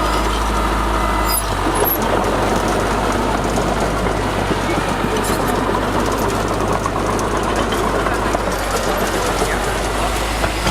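Heavy diesel engine of earthmoving machinery running steadily, with a low drone under a dense rattle.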